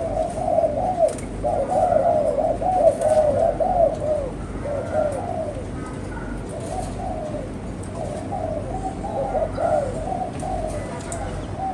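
Spotted dove cooing: phrases of short, arching coo notes repeated with brief pauses between them.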